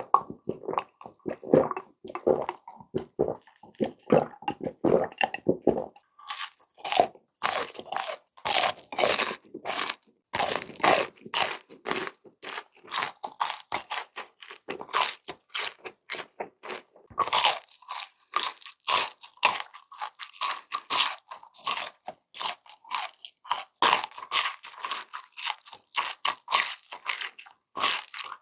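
Close-up eating sounds of a person chewing crispy fried food. The chewing is soft and moist for the first few seconds, then turns into sharp, crisp crunching bites from about six seconds in.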